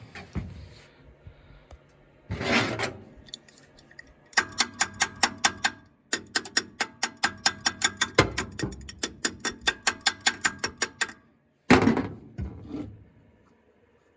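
1953 Chevrolet 3600 truck's inline-six being cranked over by the starter in two stretches, with an even beat of about five to six pulses a second, and it does not start; the engine is thought to be starved of fuel.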